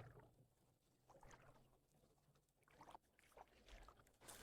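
Near silence, with a few faint, brief water splashes and sloshes from someone wading in a river.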